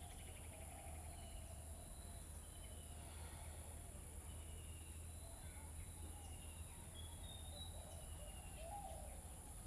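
Faint bird chirps, short and repeated, over a steady low hum of room tone.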